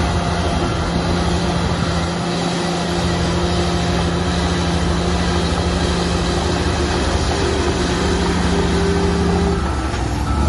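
Heavy diesel engine of earthmoving machinery running hard with a steady note. The steady note breaks off shortly before the end.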